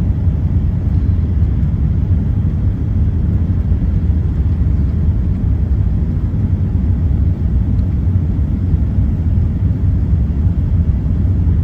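Steady low rumble inside an Airbus A380's cabin during the climb after takeoff: engine and airflow noise.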